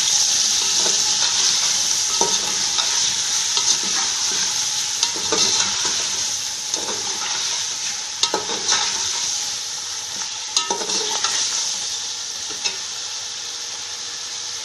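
Chicken pieces frying in hot oil with a splash of water in a pan: a steady sizzle that eases off slightly toward the end, with a spoon knocking and scraping against the pan every second or two as the pieces are stirred.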